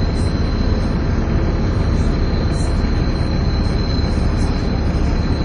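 Volvo B7TL double-decker bus's engine running, heard from inside the bus as a deep steady rumble. Over it sits a steady high-pitched whine, the vacuum-cleaner-like "hoover" sound this bus is known for.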